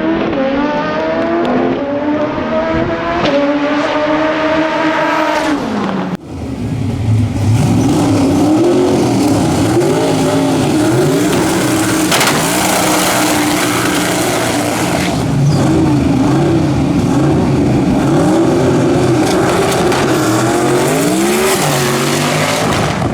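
Twin-turbo V8 dragster engine. For the first six seconds its pitch climbs in steps and then falls away. After an abrupt cut it runs with a note that rises and falls over and over, revving up and down.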